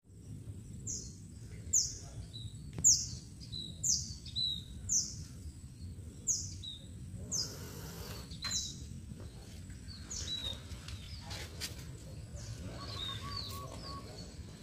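A bird calling again and again, each call a high, quick downward whistle followed by a short lower note, about once a second, over a low steady background hum. The calls are loudest in the first half and grow fainter later.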